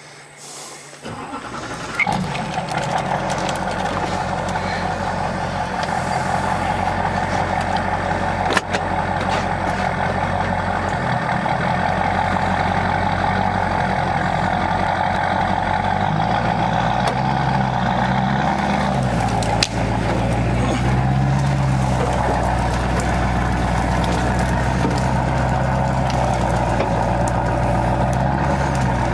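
A towing vehicle's engine running under load as it drags a dead van on a tow line through brush. Its revs rise and fall from about halfway through, with a few sharp knocks from the dragged van.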